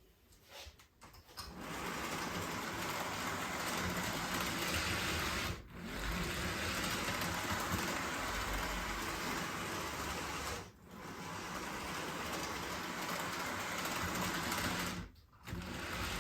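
HO scale model locomotive running around a Code 83 track loop: its small electric motor and gearing whir steadily as the wheels roll on the rails. There is no flange ticking on the sleeper plates, so it runs through without trouble. The sound cuts out briefly three times.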